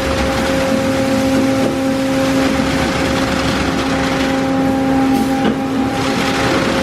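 Automatic car wash equipment running: a steady motor or pump whine held on a few fixed pitches over a continuous hiss of spraying water and air.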